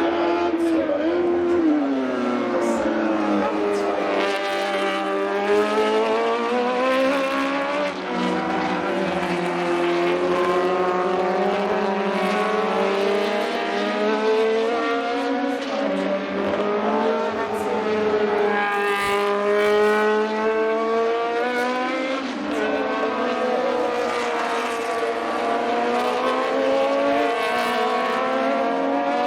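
Several vintage 1960s–70s Formula racing cars (Formula 2 and Formula 3 class single-seaters) running on track, with several engines heard at once. Their engine notes keep rising and falling as they rev up and come off the throttle.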